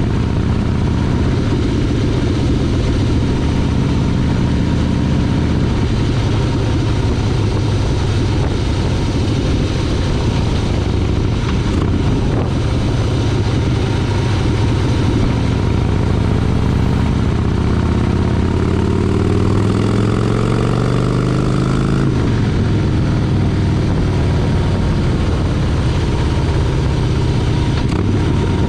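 Motorcycle engine running during a ride. Its pitch rises steadily for several seconds past the middle, then drops suddenly about 22 seconds in, as when the rider accelerates and then shifts or rolls off the throttle.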